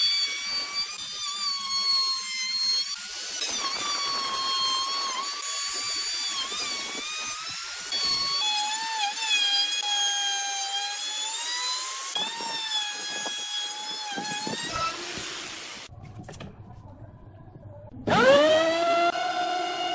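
Electric power tool motor running with a high whine that wavers and dips in pitch as it works the wood. It dies away about fifteen seconds in, and about three seconds later a power tool starts again with a rising whine as it spins up.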